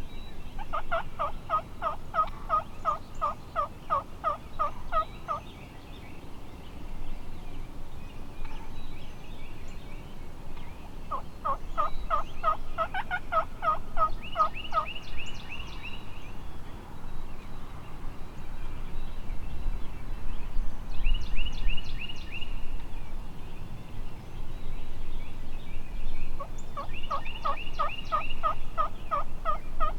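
Turkey yelping: long runs of evenly repeated notes, about four a second, each run lasting several seconds, three times. Shorter, faster, higher-pitched runs of notes come in between.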